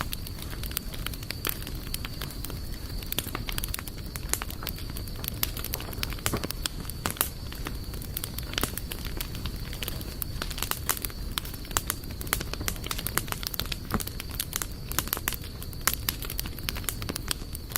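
Wood campfire crackling: quick, irregular pops and snaps from burning wood over a steady low background of flame noise.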